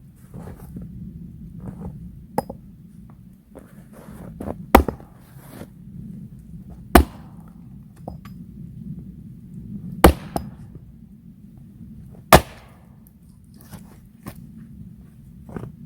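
Hand tool blows while making something: four loud, sharp strikes roughly every two to three seconds, a few lighter knocks, and handling and shuffling noises between them.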